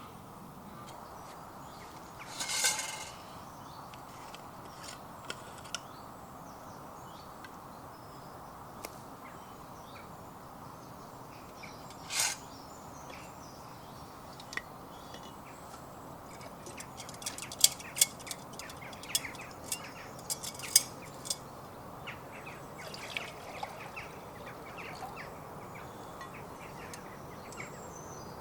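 Birds calling over a steady low rush of outdoor background noise, with scattered short calls and a quick run of sharp chirps a little past the middle.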